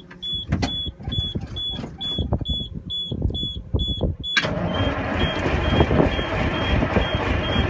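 Detroit diesel truck engine being cranked on a cold start without ether, with a cab warning buzzer beeping about twice a second. About four seconds in, the engine noise suddenly turns louder and steadier as it starts to fire.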